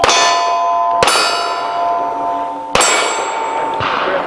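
Three pistol shots hitting steel targets, about a second or more apart, each hit followed by the plate ringing with a clear, lingering tone.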